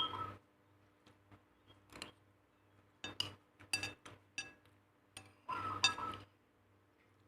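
Kitchenware clinking: a scattered series of light clinks of utensils against dishes or a pot, with a longer clatter about two thirds of the way through.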